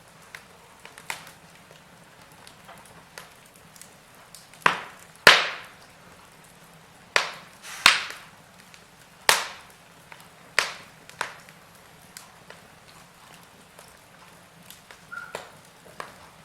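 Wood fire crackling, with irregular sharp pops that crowd together in the middle of the stretch over a faint steady hiss.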